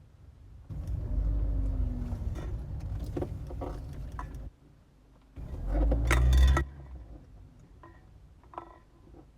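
Car front suspension creaking and rattling in two bouts, the second shorter and louder, from a ball joint that has not been fully installed.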